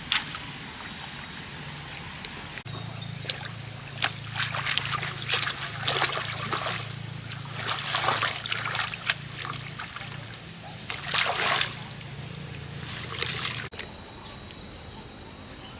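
Water splashing and trickling in irregular bursts over a steady low hum.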